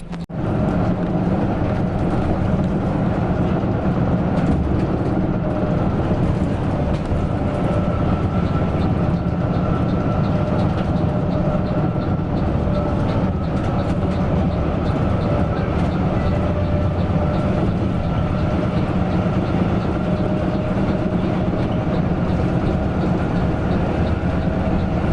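Coach bus on the move, heard on board: a steady drone of engine and road noise with a faint, nearly level whine over it.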